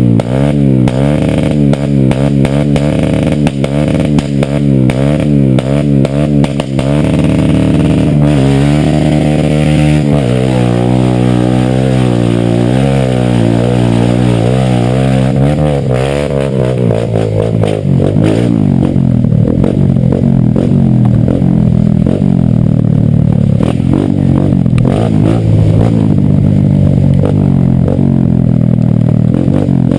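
Small off-road motorcycle engine running under way, its speed rising and falling over and over as it is ridden. The tone of the engine changes about halfway through.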